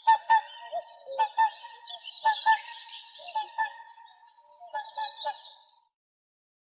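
Whooper swans calling: a rapid run of short, pitched honks with higher twittering above them, cutting off abruptly near the end.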